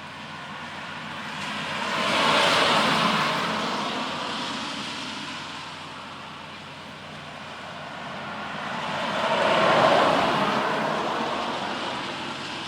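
Two road vehicles passing one after the other, their tyre and engine noise swelling and then fading away, the first about two seconds in and the second near ten seconds.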